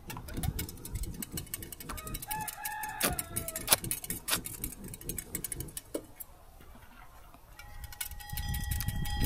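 Rooster crowing once, about two seconds in, over a low rumble and scattered sharp clicks. A faint steady tone starts near the end.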